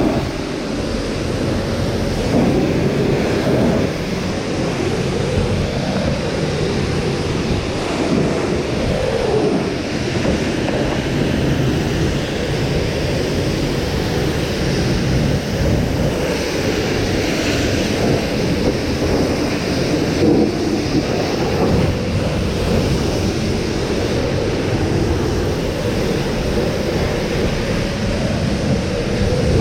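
Pressure washer running, its water jet spraying against the fiberglass shell of a truck camper: a steady rushing hiss over a motor's low noise.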